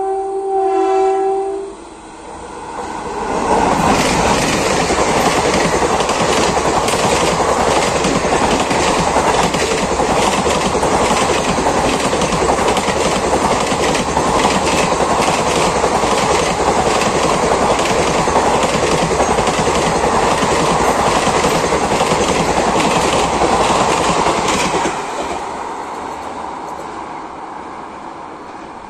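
WAP-4 electric locomotive sounding a steady two-note horn for about two seconds. Then the locomotive and its passenger coaches rush past at speed, the wheels clattering over the rail joints in a rapid run of clicks, and the noise dies down near the end.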